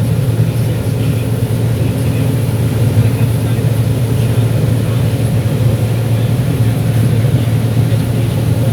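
John Deere 9760 STS combine running steadily while harvesting corn: a loud, even low engine and machinery drone, heard from inside the cab.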